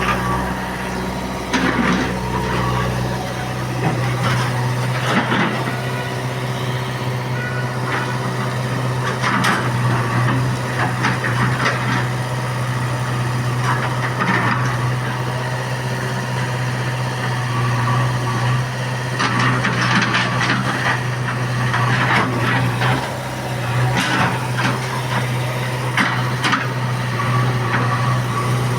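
Heavy earthmoving machinery working: an engine runs steadily under repeated clanks, knocks and scraping.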